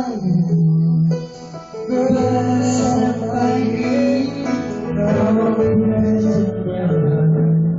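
A pop ballad with a man singing long held, sliding notes over instrumental backing, with a short dip about a second in.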